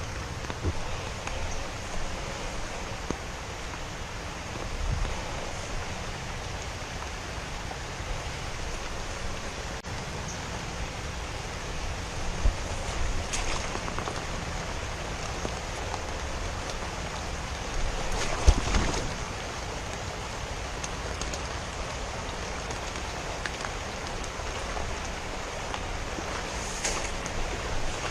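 Steady hiss of rain falling on water, with occasional splashes from wading and working the gear through the water, the largest about eighteen seconds in.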